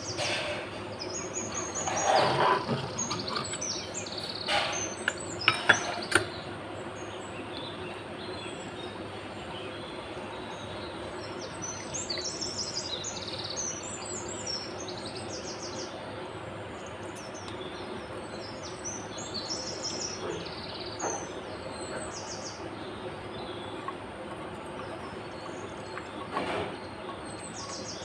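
Small birds chirping repeatedly over a steady background hiss, with a few sharp knocks and clicks and a brief rustle in the first six seconds.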